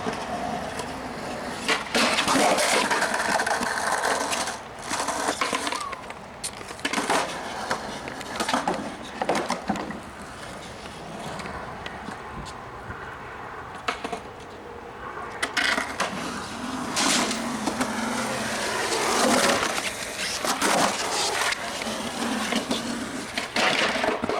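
Skateboard wheels rolling and grinding on a hard surface, broken by repeated sharp clacks and slaps of the board against the ground and obstacles.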